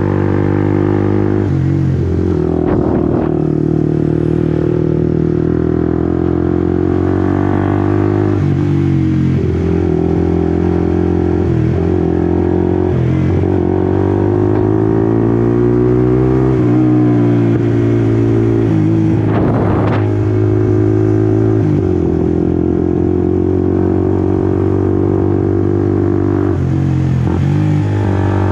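Honda CBR150R's single-cylinder four-stroke engine running hard on the move, its pitch climbing and then dropping sharply at each of several gearshifts. Around the middle it revs up steadily, then the pitch falls away.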